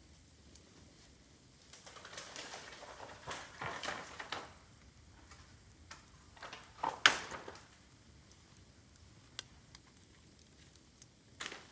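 Bamboo burning in an open bonfire: irregular crackling for a couple of seconds, then one sharp pop about seven seconds in, the loudest sound, and a few lone clicks after it.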